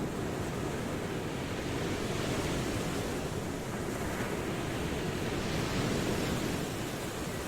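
Ocean waves washing onto a shore: a steady, even rush of surf that swells gently and eases back.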